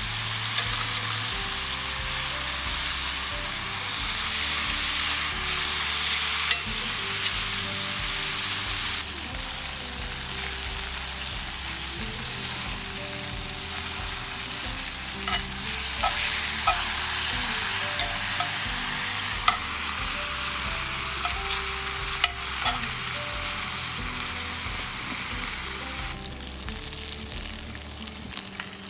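Food sizzling and frying in a cast iron skillet, with sharp clicks of a utensil against the pan now and then. The sizzle thins out near the end, and soft background music with low notes runs underneath.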